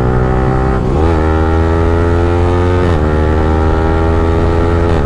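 Yamaha R15M's single-cylinder engine through a free-flow Akrapovic exhaust, accelerating under load with quick upshifts. The pitch drops at each shift, about a second in and again about three seconds in, and climbs steadily between them.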